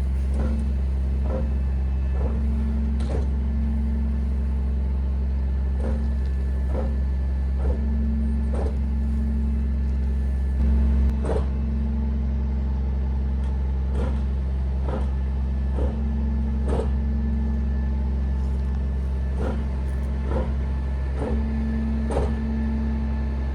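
Heavy truck's diesel engine running steadily with a low drone while its walking-floor trailer unloads, with clunks repeating a little faster than once a second as the floor's slats shift, and a brief rise in engine level about halfway through.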